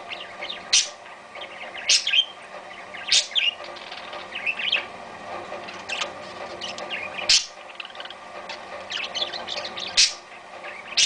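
Parakeets chirping and chattering: sharp, loud, high chirps about every one to three seconds, with softer twittering warbles in between over a steady background murmur.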